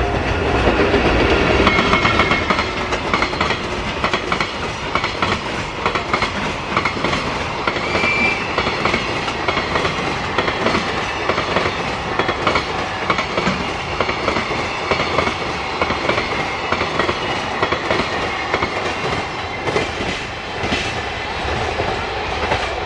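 Container freight train passing close by, its wagon wheels clacking steadily over the rail joints.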